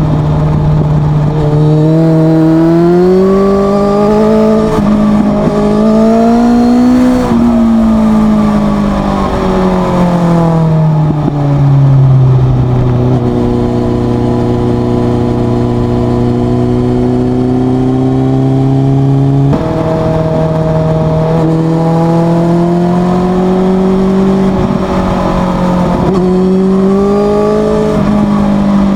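Suzuki GSX650F inline-four engine through a Leo Vince exhaust with the dB killer removed, ridden on the road. The engine pulls up in pitch, then backs off and drops, and holds a steady lower note for several seconds. About two-thirds of the way in its pitch jumps up suddenly, then climbs a little more and eases off again.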